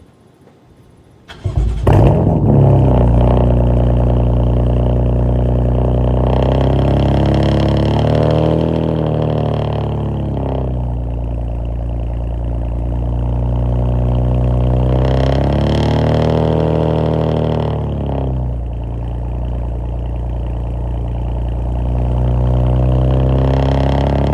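BMW M4's twin-turbo straight-six cold-starting about a second and a half in with a loud flare, then settling into a steady, high cold-start idle. The engine speed rises and falls twice.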